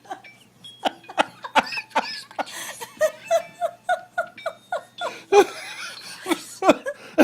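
A person laughing in a run of short, repeated bursts, about three a second, getting louder near the end.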